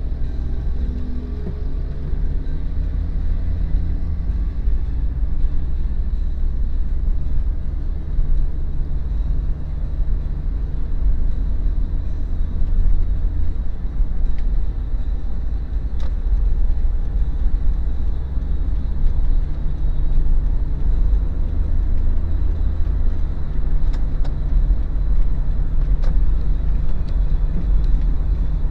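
Daihatsu Terios SUV on the move: a steady, deep rumble of engine and road noise, with a few sharp ticks late on.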